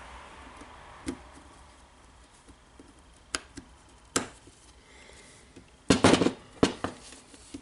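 Small metal gearbox parts of a Makita DDF484 drill's gear assembly clinking and clicking as they are handled and fitted: a few light separate clicks, then a louder quick cluster of clinks about six seconds in.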